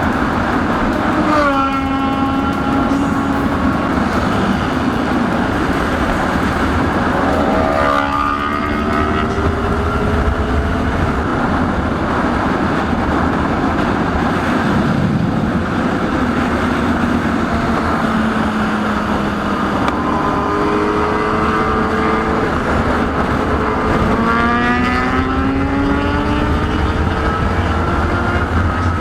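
A motorcycle engine under way, revving up and easing off several times as it pulls through the gears, over a steady rush of wind noise.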